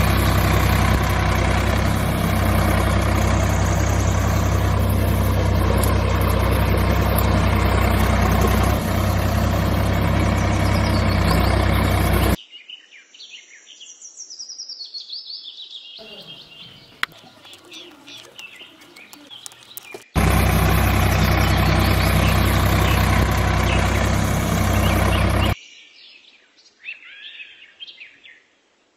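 Tractor engine running steadily in two long stretches, each cutting off abruptly, with birds chirping in the quieter gaps between them.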